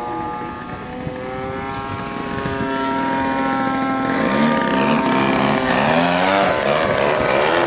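Radio-controlled model airplane's engine and propeller running, holding a steady pitch at first. From about four seconds in it grows louder and its pitch wavers quickly up and down.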